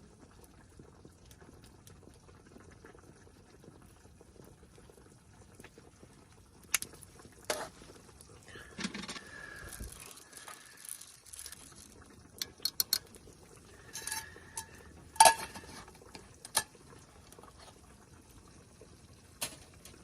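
Metal cookware and utensils clinking, knocking and scraping during cooking. A faint steady hiss comes first, then scattered clinks with brief metallic ringing and one loud clank about fifteen seconds in.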